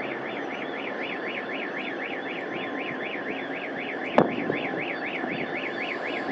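Electronic car alarm siren warbling rapidly up and down, about four to five sweeps a second, over a steady noisy rumble, with a single sharp click about four seconds in.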